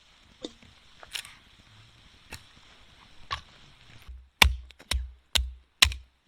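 A few scattered light clicks, then four sharp knocks with a low thud, evenly spaced about half a second apart.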